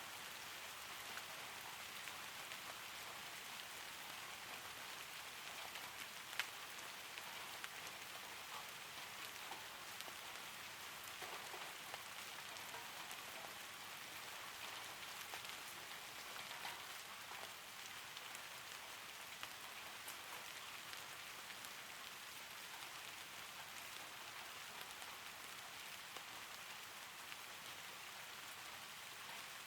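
Steady rain falling, an even hiss with scattered sharper ticks of drops, one louder tick about six seconds in.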